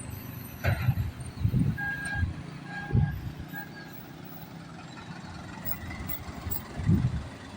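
Heavy truck's engine rumbling low on the road, with uneven low thumps, and a short run of three or four high beeps about two seconds in.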